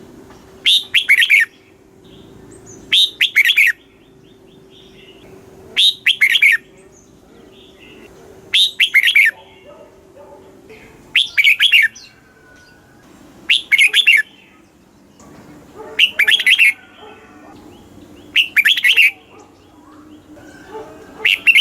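Red-whiskered bulbul singing: short, loud warbled phrases repeated about every two and a half seconds.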